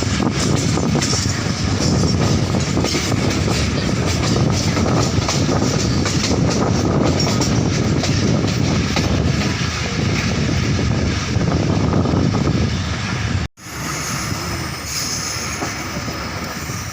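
Moving passenger train: a steady loud rumble and rattle of its wheels running on the track. About thirteen seconds in the sound breaks off abruptly and comes back quieter.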